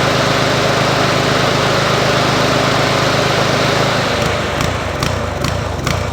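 Toro TimeMaster walk-behind mower's engine running steadily, then about four seconds in its note drops and turns uneven, with a few sharp knocks.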